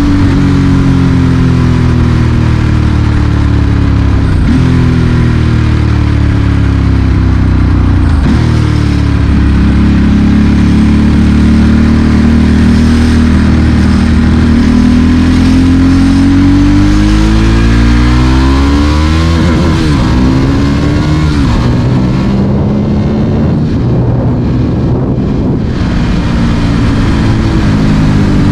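Ducati Monster S4R's L-twin engine through a straight exhaust, ridden in traffic: the engine note climbs through the revs, drops at each gear change and winds down as the bike slows, then picks up again near the end.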